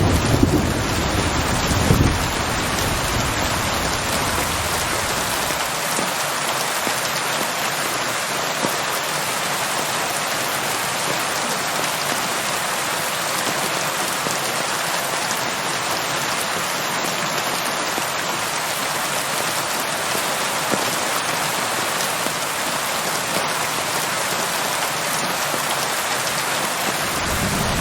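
Steady, even rain. A low thunder rumble dies away in the first couple of seconds, leaving only the rain's hiss.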